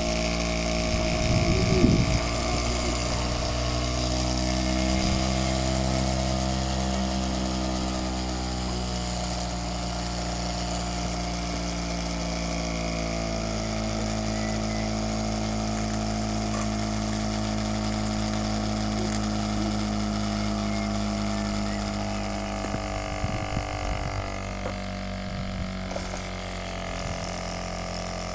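Solar-powered Stirling engine running near its top speed: a steady pitched hum whose pitch drifts slowly up and down as the speed varies.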